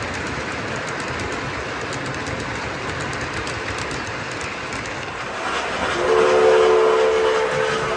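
Model train running on its track with a steady rumble and clatter. About six seconds in, its sound system blows a horn chord of several notes for about two seconds.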